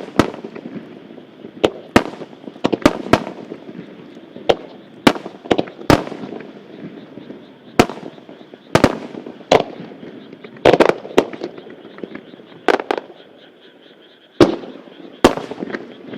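Aerial fireworks shells bursting in a fast, irregular barrage (a starmine), each sharp report trailing off in echo, some coming in quick pairs and clusters.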